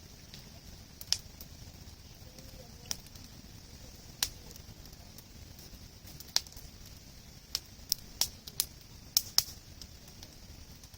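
Wood campfire crackling, with about ten sharp pops at uneven intervals that come thicker near the end, over a steady hiss.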